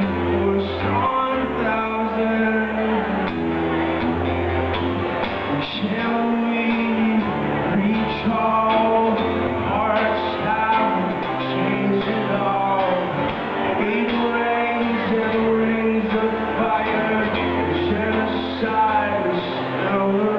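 Live rock music: a slow song played with sustained chords over held low bass notes.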